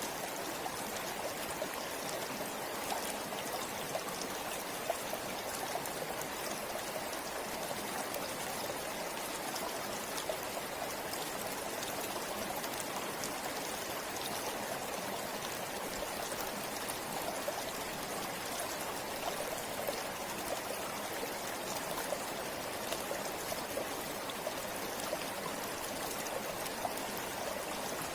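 A forest stream or river flowing steadily, water splashing and trickling over rocks with small droplet sounds.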